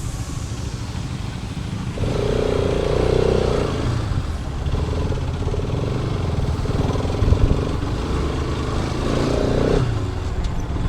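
Bajaj Pulsar RS200's single-cylinder engine running as the motorcycle rides through city traffic. A held tone sounds twice, about two seconds in for a second and a half and again briefly near the end.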